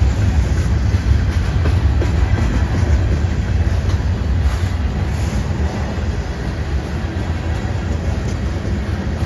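A train rolling past with a steady, heavy low rumble that eases slightly in the second half.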